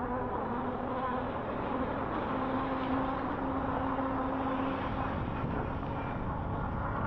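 HappyRun G18 Pro electric bike's motor whining under power, a humming tone that comes in and out as the rider applies throttle, over a steady rush of wind and tyre noise while riding.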